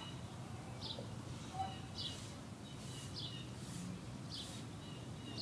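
A bird calling repeatedly: a short high chirp with a brief lower trailing note, about every second and a quarter, over a faint low background hum.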